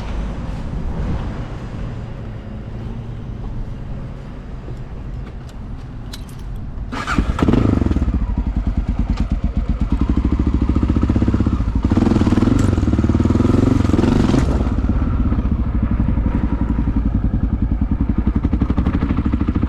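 Honda XR650L's air-cooled single-cylinder four-stroke engine under way, running at moderate revs until the throttle is opened hard about seven seconds in; it then runs louder, with a further surge around twelve to fourteen seconds, and settles into steady running.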